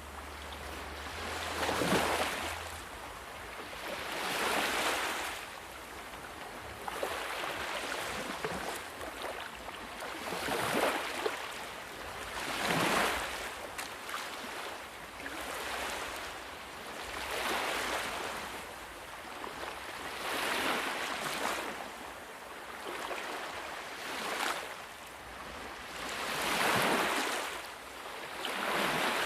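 Ocean waves washing onto a shore, each one swelling and fading in turn, about one every two to three seconds.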